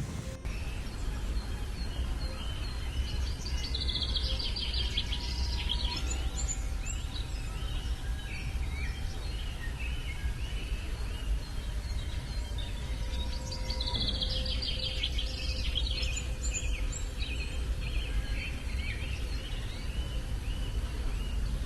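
Outdoor ambience: small birds chirping in quick clusters, twice, over a steady low rumble.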